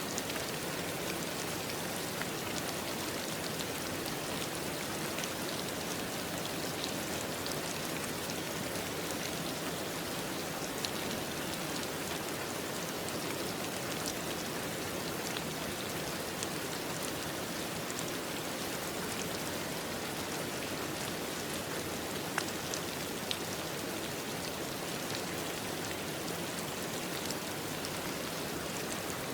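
Steady rain falling, an even hiss with many fine individual drop ticks scattered through it.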